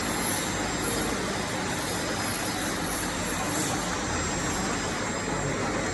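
Turntable auger powder filling machine running: a steady mechanical hum with a high-pitched whine that stops about five seconds in.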